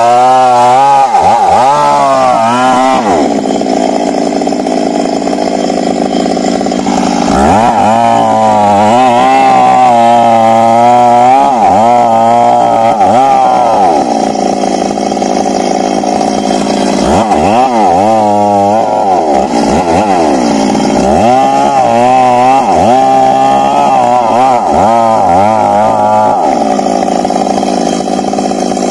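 Stihl MS 382 two-stroke chainsaw cutting wood, its engine speed repeatedly dipping and recovering under load in three spells, with stretches of steady running between them.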